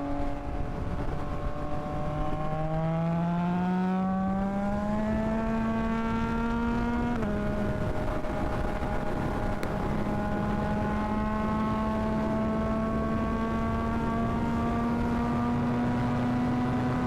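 Yamaha MT-09 inline three-cylinder engine under way, with wind rushing past. The engine note dips about two seconds in, climbs steadily as it accelerates, drops sharply at an upshift about seven seconds in, then holds a steady cruise.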